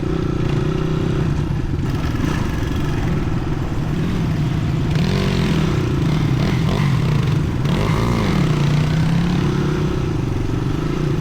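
Dirt bike engine running under way, its pitch rising and falling briefly a couple of times in the middle as the throttle changes.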